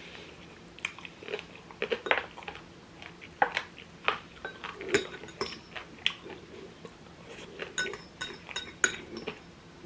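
Eating sounds: utensils clicking and clinking against bowls and plates, with chewing between, and a quick run of ringing clinks near the end.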